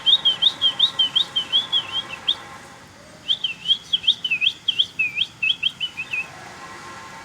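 A small bird chirping in two quick runs of slurred notes, about five a second, with a pause of about a second between them. A faint steady hum runs underneath.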